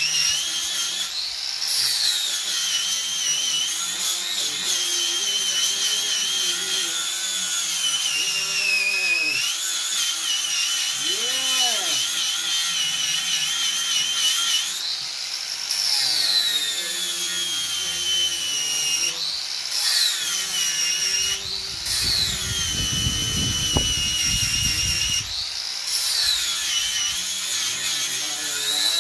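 Electric angle grinder running, its high whine dipping in pitch as it is pressed onto metal and rising again as the load comes off. It stops briefly several times, and there is a spell of rougher grinding noise near the end.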